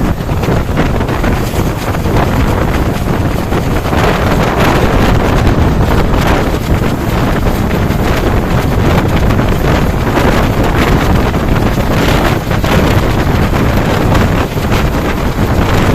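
Train hauled by an Alco WDP3A diesel locomotive running at high speed: a steady, loud rush of wheel and track noise with heavy wind buffeting the microphone.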